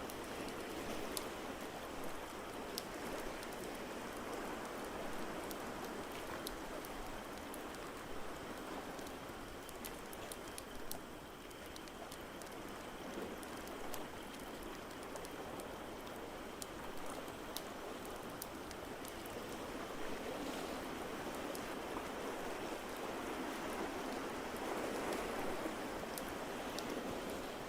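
Ambience mix of ocean waves washing in, swelling and easing every several seconds, over a steady hiss, with the small sharp crackles of a wood fire scattered throughout.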